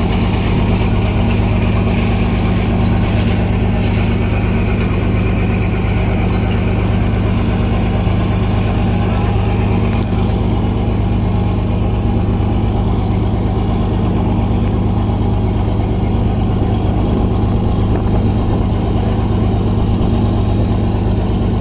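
An engine running steadily at an even speed with a deep, constant drone.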